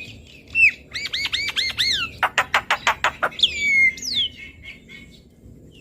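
Oriental magpie-robin (kacer) singing a varied phrase: a run of five arched whistled notes, then a fast rattle of about eight short notes a second, then two falling whistles.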